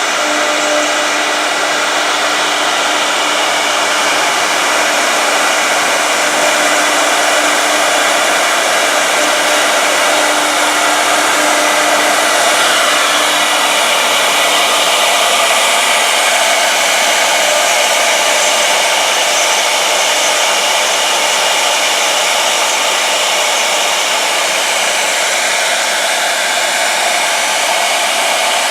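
Two-head 1325 CNC router running: a loud, steady machine whine over an airy rush, holding even throughout, with a lower tone that fades out about halfway through.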